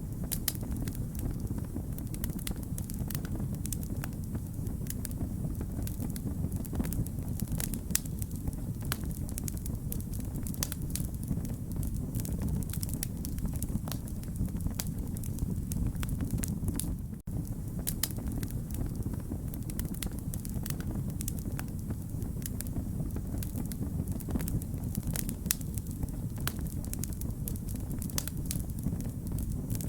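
Fire crackling: many sharp pops and snaps over a steady low rumble of the flames. The sound cuts out for an instant about seventeen seconds in.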